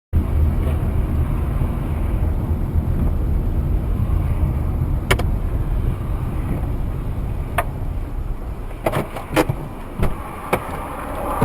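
Car driving, with steady low engine and road noise, and a handful of short sharp clicks or knocks in the second half.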